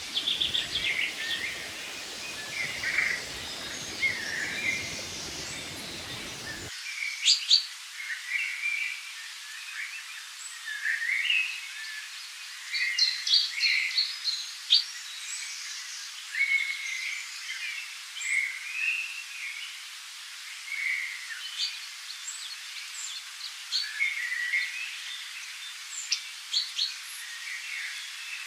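Several songbirds singing and calling in short chirps and trills throughout, over a steady even hiss of background ambience; the deeper part of the background drops away about seven seconds in.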